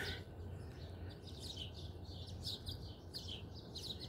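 Small birds chirping in quick short high notes, about three a second, faint over a low steady hum.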